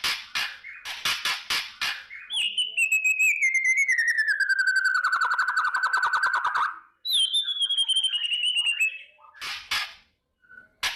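White-rumped shama (murai batu) giving its kretekan: quick bursts of dry rattling clicks, then a long pulsed whistle that slides down in pitch over about four seconds. After it comes a shorter falling whistle, and another short rattle near the end.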